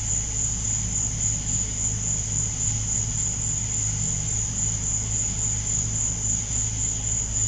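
Chorus of night insects singing: a steady, high-pitched, unbroken trill, with a low steady hum underneath.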